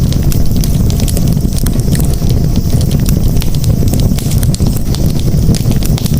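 Campfire crackling, with frequent small sharp pops and snaps over a steady low rumble.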